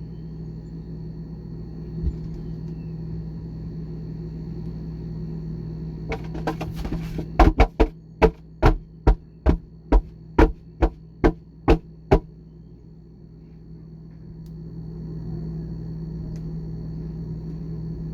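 Steady low hum of a refrigerator running, heard from inside the closed fridge. About halfway through comes a quick run of about a dozen sharp knocks, roughly two a second.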